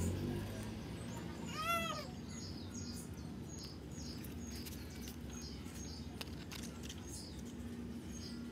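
Small birds chirping, a short high falling chirp repeated about twice a second, with one lower, rising-then-falling call a little under two seconds in, over a steady low hum.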